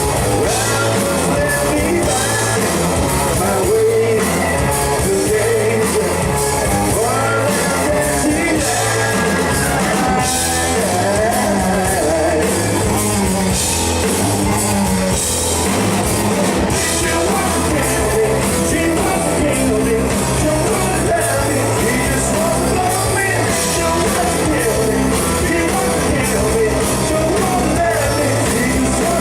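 Live rock trio playing a song, with a sung vocal over electric guitar, bass notes and a drum kit beat.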